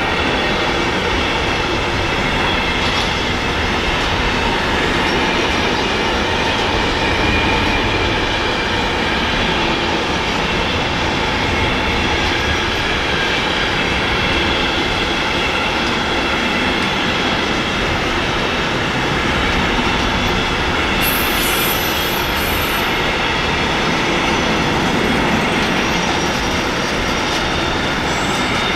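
Electric train rolling past close by: a loud, steady rumble of wheels on the rails with a faint squeal over it. A brief high hiss comes about three-quarters of the way through.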